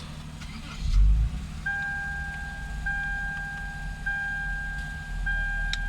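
2007 Lexus IS350's 3.5-litre V6 starting about a second in, then settling into a steady idle, which the owner calls quite okay now that the mass airflow sensor blamed for its rough idle has been replaced. A warning chime repeats about every second and a quarter over the idle.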